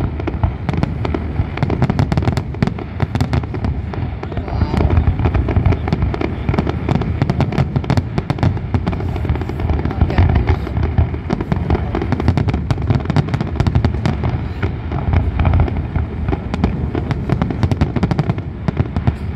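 Fireworks display going off in a dense, continuous barrage of bangs and crackles, many shots a second without a break.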